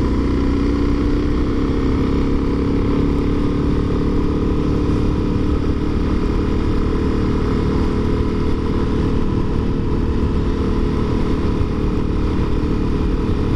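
Motorcycle engine running at a steady pitch as the bike is ridden at an even speed, with no change in revs.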